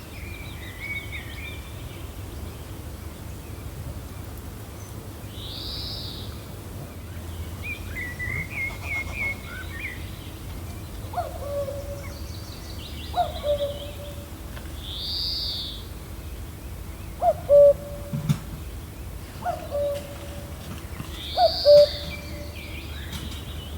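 Woodland bird calls over a steady low wind rumble: a short arched high call repeats every several seconds, a chattering trill comes about eight seconds in, and from about eleven seconds a series of short, lower hoot-like notes calls over and over.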